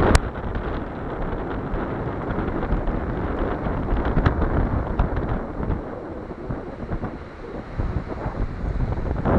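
Wind buffeting the microphone: a dense, gusty rumble with no engine or tones in it. A sharp click comes just after the start, and a few fainter ticks follow about four and five seconds in.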